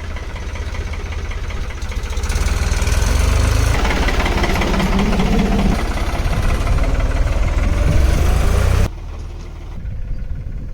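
Tractor engine running with a steady low throb, louder through the middle and dropping off abruptly near the end.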